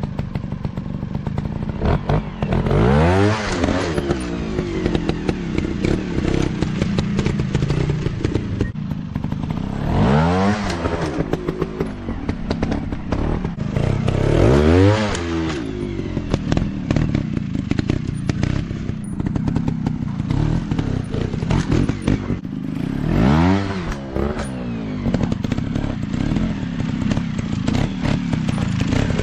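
Dirt bike engines running, revving up and dropping back in four bursts, with a steady rapid rattle of engine firing between them.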